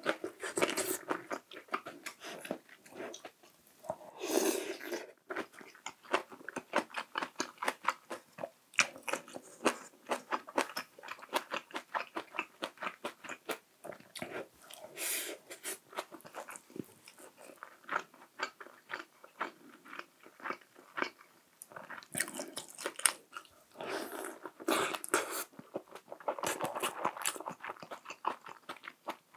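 Close-miked chewing of a dumpling hot-pot meal: rapid wet mouth clicks and smacking throughout, with several louder, noisier stretches of chewing.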